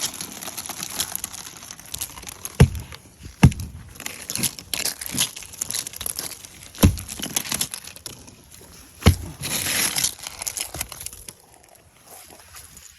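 Ice being scraped and chipped off a truck: crunching, crackling scrapes with four sharp knocks, then it goes quieter near the end.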